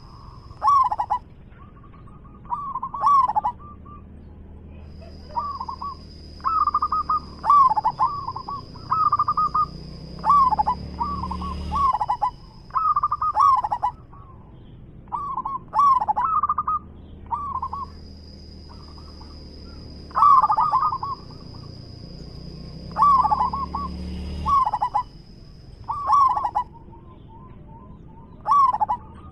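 Zebra dove cooing: short bursts of quick, rippling coo notes repeated every second or two. A steady high-pitched whine comes and goes in long stretches behind the calls.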